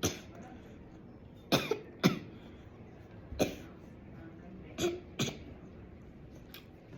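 A person's short, sharp mouth or throat sounds close to the microphone, about six of them, some in quick pairs.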